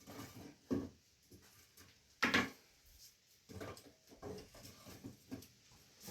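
Irregular knocks and rustles of things being handled and set down, with one sharper knock about two seconds in.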